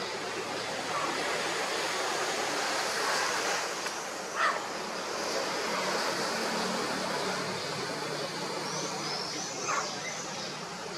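Steady rushing background noise with two short, sharp squawks from a blue-fronted amazon (turquoise-fronted parrot), one about halfway through and one near the end.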